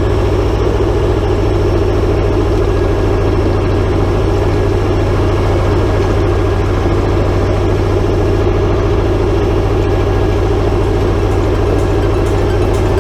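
T-25 tractor's two-cylinder air-cooled diesel engine running steadily at an even pace.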